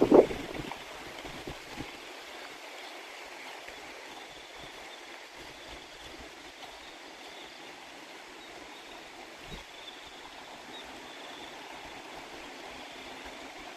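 Water flowing steadily, as in a rice-field irrigation channel, with a faint high thin trill of crickets over it. A gust of wind buffets the microphone right at the start.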